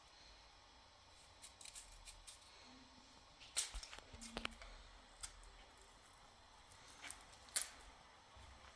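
Faint, scattered clicks and scrapes, loudest about three and a half seconds in and again near the end.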